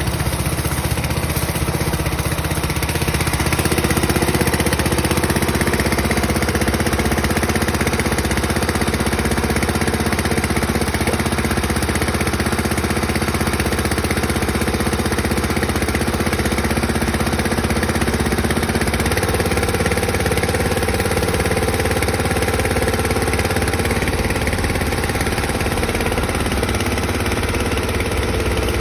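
Motorcycle-wash high-pressure washer machine running steadily, with a low, even hum. Its sound changes slightly about two-thirds of the way through.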